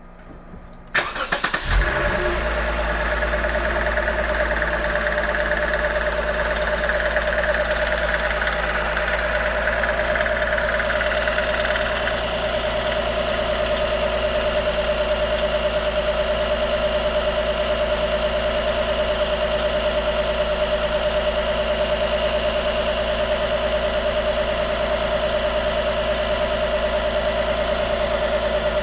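2016 Lexus GS350's 3.5-litre V6 starting: the starter cranks briefly about a second in, the engine catches, and it then idles steadily. A higher whirring that accompanies the first seconds of running drops away about twelve seconds in.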